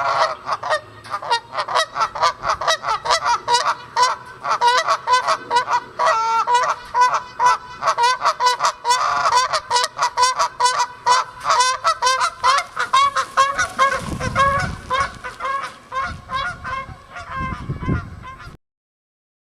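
Rapid, overlapping honking calls of geese and whooper swans, a near-continuous run of several calls a second, with a couple of low rumbles late on. The calls cut off suddenly shortly before the end.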